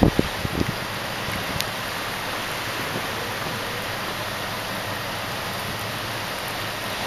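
Strong wind making a steady rushing hiss, with a few gusts buffeting the microphone in the first second.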